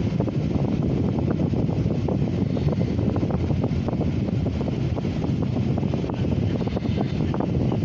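Freight cars rolling past on the rails, a steady rumble with many irregular clicks and clanks from wheels and couplers, heard from inside a vehicle cab.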